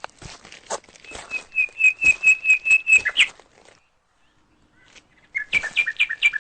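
A bird sings a rapid run of about nine clear whistled notes on one pitch, ending on a rising note, then after a short pause a second quicker run of notes alternating between two pitches. Short crunching steps sound under the first run.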